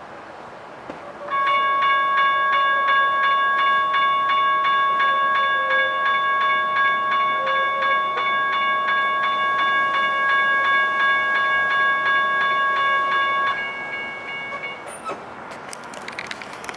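Railroad grade-crossing bell ringing with rapid, evenly spaced strokes for about twelve seconds, then stopping and ringing out. A few sharp clicks and knocks follow near the end.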